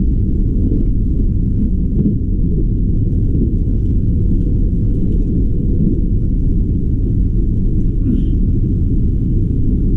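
Train running along the track, a steady low rumble.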